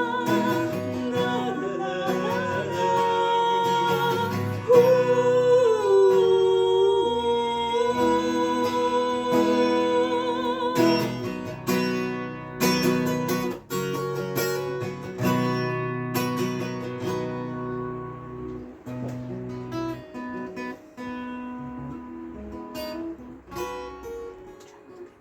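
Acoustic guitar strummed under a wordless sung melody with long, wavering held notes. After about ten seconds the voice drops out and the guitar strums on alone, growing softer toward the end.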